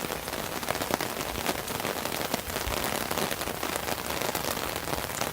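Steady rain falling, with many individual drops ticking sharply as they land close by.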